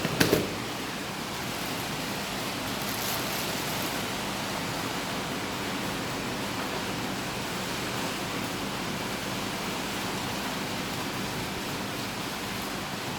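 Steady rushing hiss of water running in an aquarium, such as a filter's return flow, with a brief knock right at the start.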